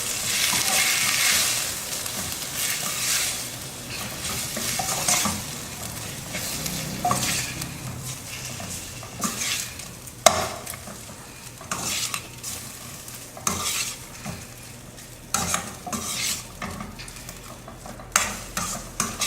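Boiled tapioca pieces being stirred in a pan of onion and red-chilli paste. A spoon scrapes and knocks against the pan in irregular strokes over a light sizzle. The sizzle is loudest at first and then fades.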